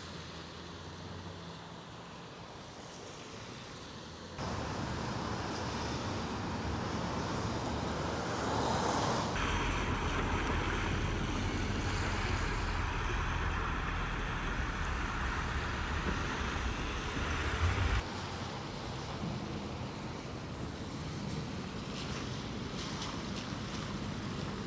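Outdoor ambient noise of wind and low rumble, like distant traffic, with no clear single event. It changes abruptly several times: louder about four seconds in, louder still with more rumble from about nine seconds, then quieter again near eighteen seconds.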